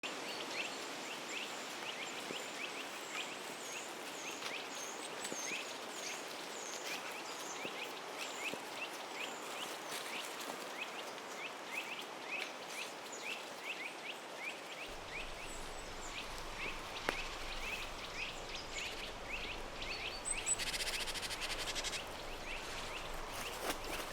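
Forest ambience: birds chirping repeatedly over a steady background hiss, with a brief burst of noise about twenty seconds in.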